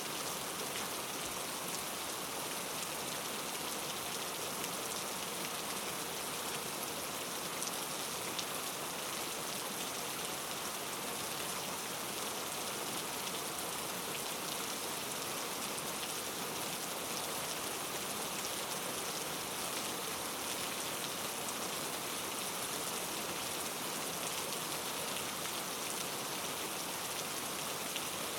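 Steady rain falling and pattering on a surface, an even hiss with fine scattered drop ticks.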